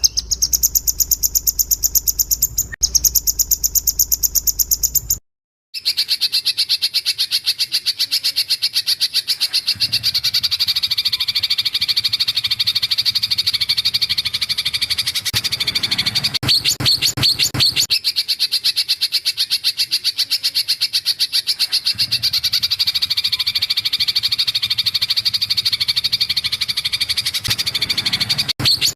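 Recorded masteran calls for training white-rumped shamas: a very fast, high-pitched pulsed trill for about five seconds, a brief break, then a longer, lower, buzzy rapid trill that runs on.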